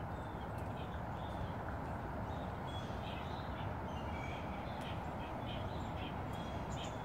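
Many short, high bird chirps over a steady background hiss.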